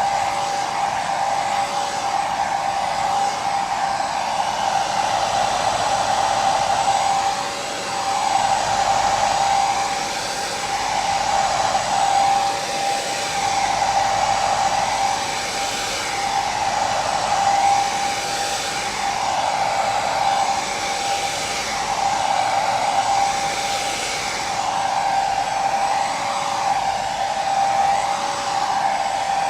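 Electric hair dryer running continuously: a steady motor whine over the rush of blown air, with a faint high whistle, wavering gently every couple of seconds.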